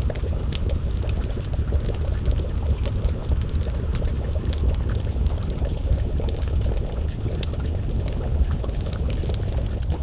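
Wood fire crackling with scattered sharp pops over a steady low rumble, together with a pot of stew bubbling at a simmer.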